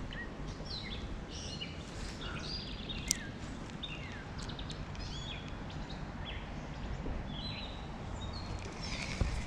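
Small birds chirping and calling many times in short notes over a steady low outdoor rumble, with a sharp click about three seconds in and a thump near the end.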